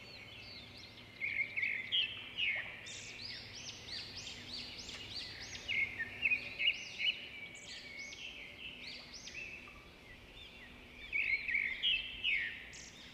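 Small birds chirping: many quick, arching calls that overlap, coming in louder spells about a second in, around six seconds in, and again near the end.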